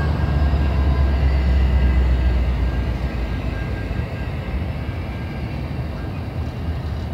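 Freight train passing at close range: a low diesel locomotive engine drone dies away about two and a half seconds in, leaving the steady rumble and rattle of locomotive wheels rolling on the rails.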